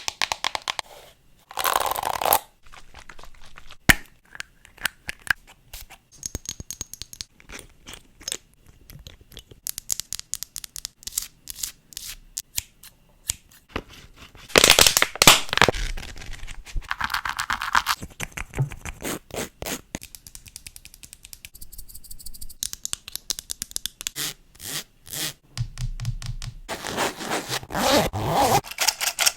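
A rapid series of close-miked ASMR triggers: long fingernails tapping and scratching on assorted objects, changing every few seconds. Quick runs of sharp taps alternate with stretches of scraping and scratching.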